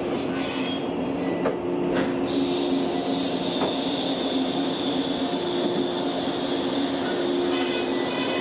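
Former JNR-type 115 series electric train running on the rails with a steady wheel squeal; a high hiss comes in about two seconds in.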